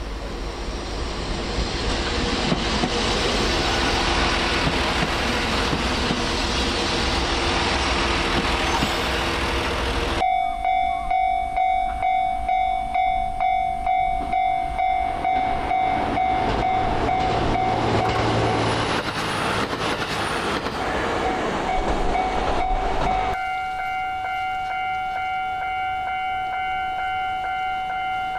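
Trains passing with a rising rush of wheel and rail noise. After an abrupt cut about a third of the way in, a steady ringing tone pulses about twice a second over further train noise. Near the end another cut leaves only steady tones.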